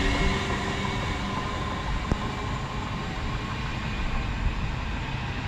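Class 350 Desiro electric multiple unit pulling away, its motor whine and wheel noise fading as it moves off, with a single sharp click about two seconds in.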